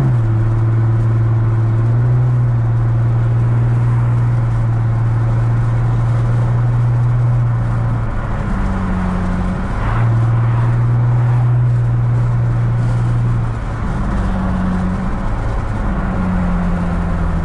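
Infiniti G35's 3.5-litre V6 engine and exhaust droning steadily under cruise, heard from inside the cabin over road noise. The drone's pitch steps up briefly twice as the revs change.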